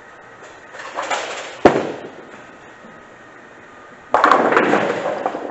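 Bowling ball landing on the lane with a sharp thud and rolling off, then about two and a half seconds later striking the pins in a loud crash and clatter that dies away.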